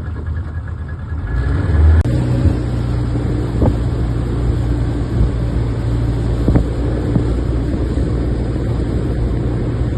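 Boat's outboard motor running, picking up about a second and a half in, then holding a steady drone.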